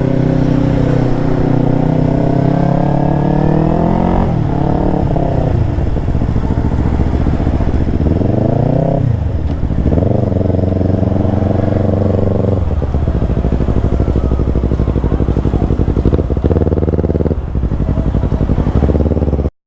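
Motorcycle engine running under way, its pitch climbing as it accelerates and dropping suddenly about four and nine seconds in, like gear changes, then holding fairly steady with smaller rises and falls.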